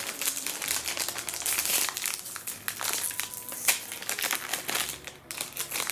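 Plastic snack wrapper crinkling and rustling in the hands, as a packet of strawberry Pocky sticks is handled and opened.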